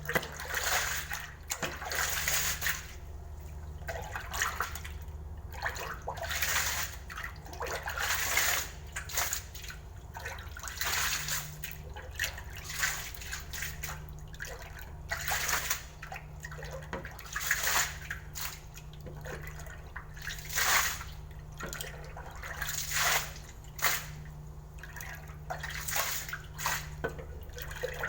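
Water sloshing and splashing in repeated bursts every second or two, over a steady low hum.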